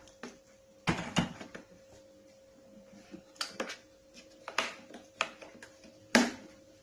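Hard plastic parts of a vacuum cleaner knocking and clicking as its filter and housing are handled and fitted into place: a string of separate sharp knocks, the loudest near the end.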